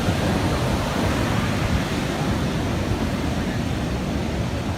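Steady rushing noise of heavy surf and wind, with no distinct events.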